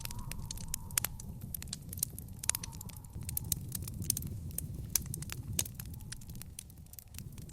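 Wood fire in a backyard fire pit crackling, with frequent irregular sharp pops over a low steady rumble.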